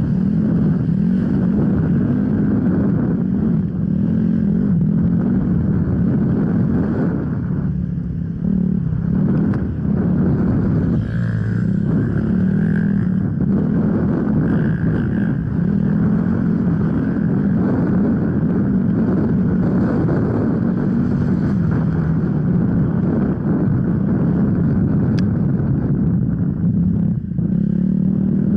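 Off-road enduro motorcycle engine running hard as the bike is ridden, its pitch rising and falling with the throttle, with brief easings of the throttle about a third of the way in and near the end.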